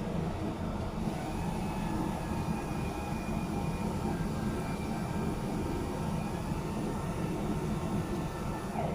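Steady machinery drone with a low hum and a faint high whistle, unchanging throughout.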